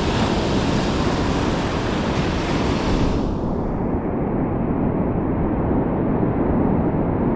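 Steady rush of surf with wind buffeting the microphone; the higher hiss drops away about three seconds in.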